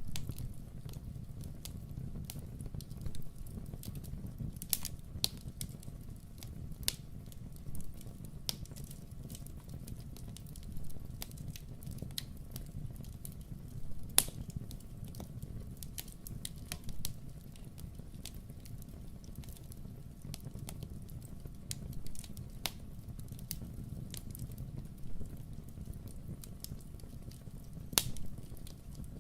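Wood fire in a fireplace crackling, with irregular sharp pops and snaps, the loudest about halfway through and near the end, over a steady low rumble.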